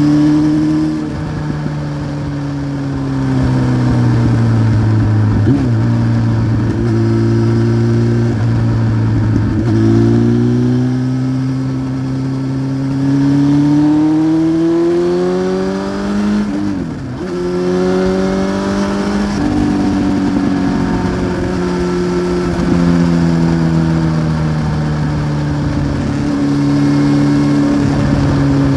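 1993 Honda CBR900RR Fireblade's inline-four engine with a Remus aftermarket exhaust, heard on the move. It runs at fairly steady revs, rises in pitch for several seconds past the middle, drops sharply for a moment like a gear change, then holds and slowly eases off.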